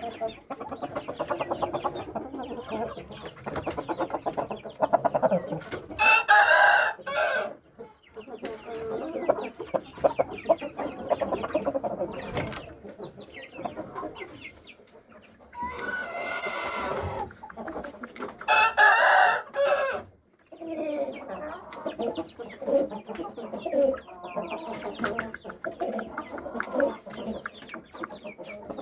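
Shamo gamefowl in a flock: chickens clucking and calling throughout, with roosters crowing loudly several times.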